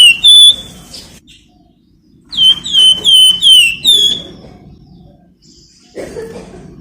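Flamboyan songbird calling: a string of sharp, quickly repeated whistled notes, each sliding down in pitch, in two bursts with a pause of about two seconds between them. This is the loud, busy 'ngebren' style of calling that keepers use as a lure to set other birds singing.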